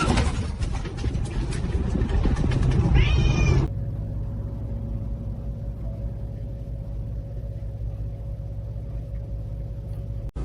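A cat meows once, briefly, about three seconds in, among a run of clattering knocks. This is followed by a steady low hum.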